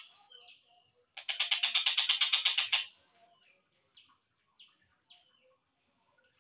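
Slowed-down recording of a collared kingfisher (tengkek buto) calling: a loud, rapid rattle of about ten harsh notes a second lasting about a second and a half, with faint short chirps and falling notes before and after it.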